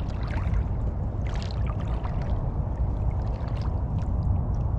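Water splashing and sloshing in irregular bursts over a steady heavy wind rumble on the microphone.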